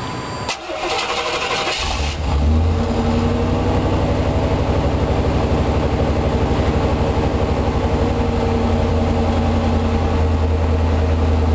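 1990 Chevrolet Suburban's 5.7-litre V8 started: a brief crank, catching about two seconds in, then settling into a steady, even idle.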